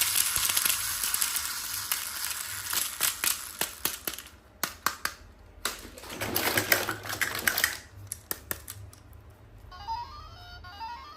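Toy packaging and plastic parts being handled, a rustling haze broken by many sharp clicks. Near the end a toy starts playing an electronic jingle of quick rising notes.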